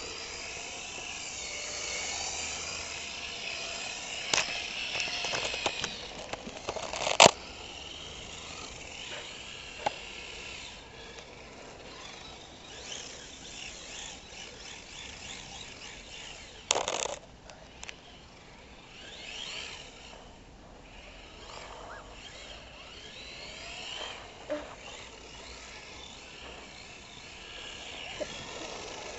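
HPI Maverick RC drift car's motor whining, rising and falling in pitch as it is throttled through drifts, with a few sharp knocks, the loudest about seven seconds in and another around seventeen seconds.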